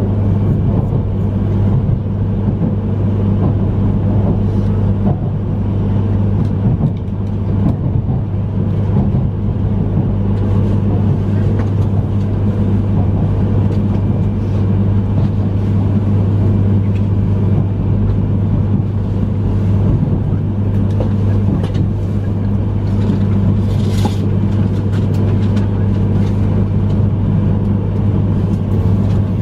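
Steady running noise inside the cabin of a Yamagata Shinkansen E3-series train as it moves along: a constant low hum over even wheel-and-track noise, with a brief hiss about 24 seconds in.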